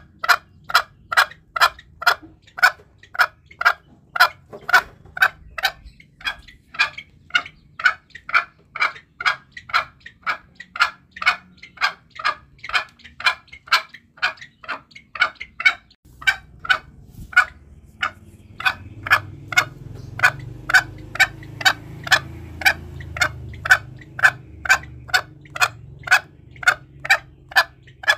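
Green junglefowl calling in a steady, rapid series of short clucks, about two to three a second, with a brief break about halfway. A low rumble sits underneath in the second half.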